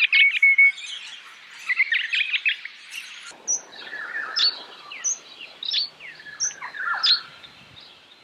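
Parrot calls: quick chattering notes in two bursts, then after a break about three seconds in, a looser run of short whistled and squeaky calls.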